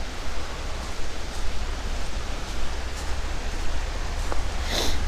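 Steady rushing of creek water flowing past a fallen-tree blockage, with a brief rustle near the end.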